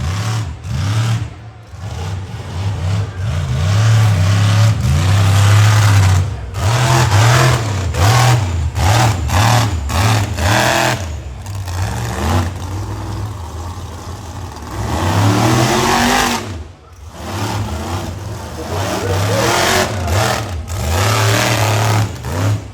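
Monster truck's supercharged V8 engine revving hard, its pitch climbing and falling as the throttle is repeatedly opened and backed off, with brief lifts off the throttle about a third and three quarters of the way through.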